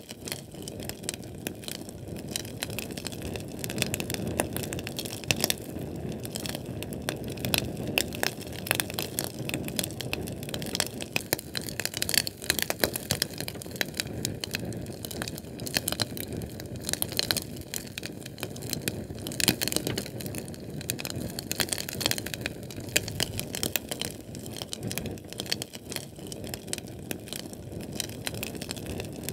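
Sterno chafing-fuel flame burning, crackling with dense, irregular sharp pops over a steady low rush of flame.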